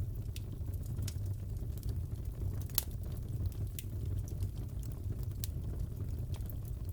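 Fireplace crackling: a steady low rumble of burning wood with scattered sharp pops and snaps, the loudest pop about three seconds in.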